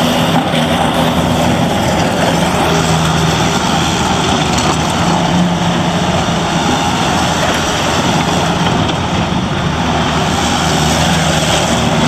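Bobcat T190 compact loader's diesel engine running steadily, a loud, even engine drone with no break.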